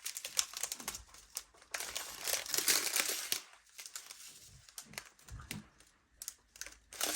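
Small plastic bags of diamond-painting drills crinkling as they are handled, with light clicking from the drills inside, in irregular spurts.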